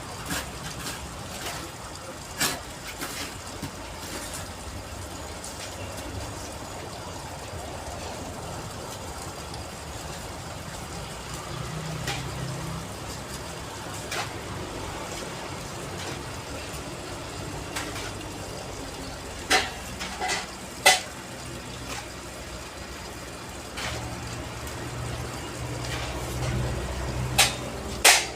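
Steady low engine hum with scattered sharp knocks, a quick run of three about two-thirds of the way through and more near the end, and faint voices.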